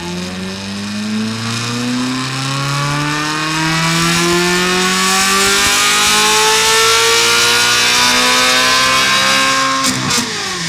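Ferrari California V8 with a Capristo exhaust pulling up through the revs under load on a roller dyno, its pitch climbing steadily for about ten seconds. Near the end the throttle closes and the revs fall away, with a few sharp pops.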